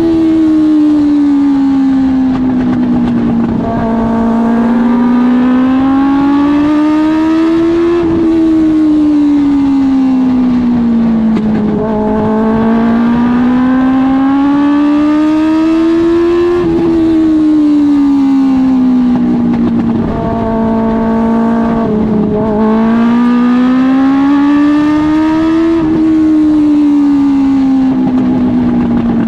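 Suzuki GSX-R1000 inline-four motorcycle engine of a dwarf race car at racing speed. It revs up along each straight and drops off through each turn, a rise and fall about every eight to nine seconds. It is limited to about half throttle by a fault.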